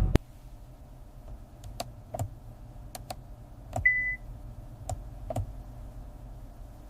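About eight sharp clicks at uneven intervals, with one short, high electronic beep about four seconds in, over a faint low hum.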